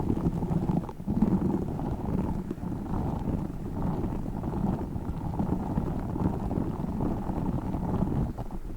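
Tiny spiky orbeez balls being squeezed and rolled in the hands close to the microphone, giving a continuous rubbery squishing and rustling that rises and falls without a clear rhythm.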